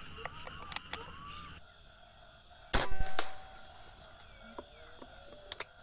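An air rifle shot about three seconds in: one sharp report with a brief metallic ring. Faint bird chirps and a few small clicks around it.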